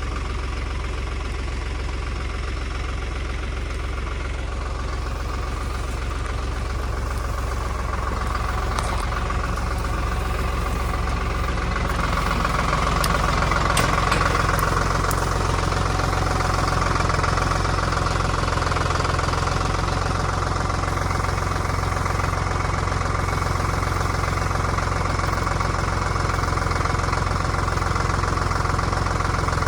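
Tractor engine running steadily, getting a little louder about halfway through, with a few sharp knocks near the middle.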